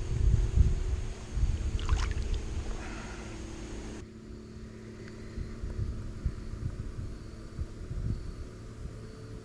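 Low knocks and bumps of handling in a fishing kayak on the water, with a brief swish about two seconds in. The sound drops quieter and changes abruptly about four seconds in.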